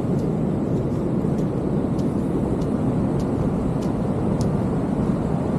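Steady roar of ocean surf breaking on the beach, with faint light clicks about every half second.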